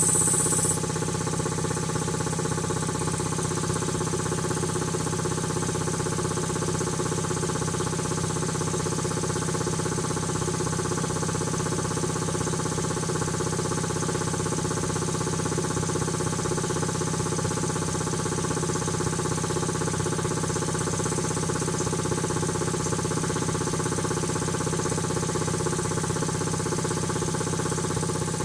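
Quincy QT-5 two-stage reciprocating air compressor pump running steadily on its first run after a rebuild, an even, rapid mechanical beat. A high hiss cuts off within the first second.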